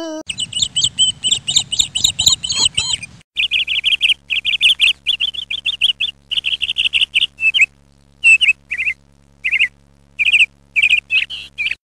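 Birds chirping: quick runs of high, repeated chirps, briefly interrupted about three seconds in, then shorter runs with pauses between them in the second half.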